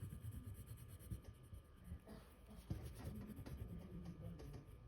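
A yellow crayon scribbling back and forth on drawing paper, colouring in a shape; faint, with a light tick about two and a half seconds in.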